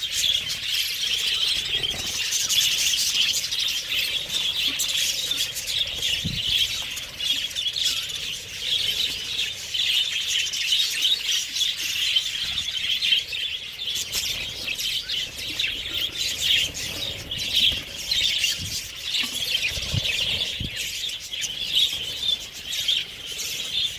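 A flock of small birds chirping continuously in a dense, overlapping chorus.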